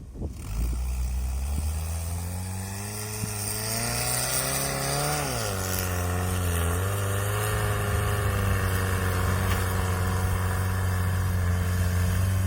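Toyota 1NZ-FE 1.5-litre four-cylinder engine of a homemade all-terrain vehicle pulling under throttle. It comes in about half a second in and climbs steadily in pitch, drops abruptly about five seconds in, then runs at a steady pitch.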